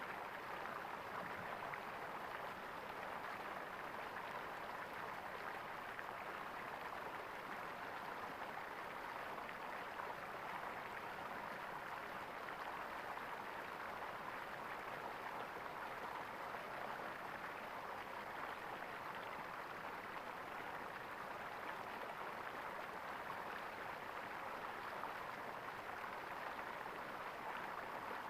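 Stream water gurgling, an even, unbroken rush.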